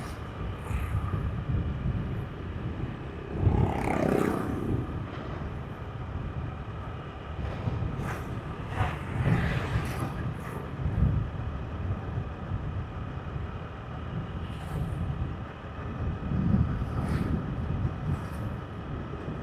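Road noise of a motorbike riding at night in light traffic: a steady low rumble. Other vehicles pass about four seconds in, the loudest one falling in pitch, and again around nine seconds and near the end.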